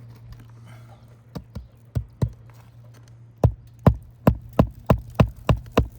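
Hammer driving roofing nails into an asphalt shingle: a few light taps, then a steady run of about nine hard blows at roughly three a second.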